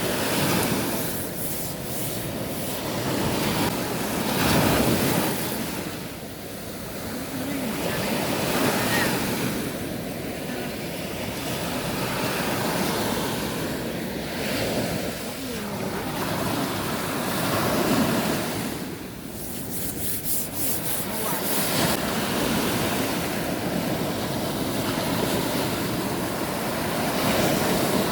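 Sea waves surging in and washing back, the noise swelling and fading every four to five seconds, with wind on the microphone.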